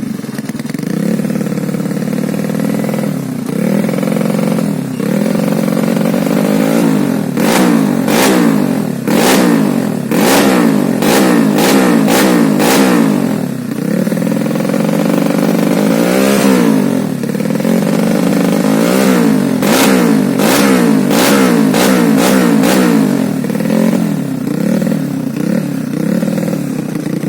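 Honda Beat FI scooter's bored-up single-cylinder engine blipped again and again through a CLD C3 aftermarket exhaust with a 50 mm inlet. It sounds loud and raw ('gahar'), the revs rising and falling with each twist of the throttle. Clusters of sharp pops come from the exhaust during the harder revving in the middle and again later.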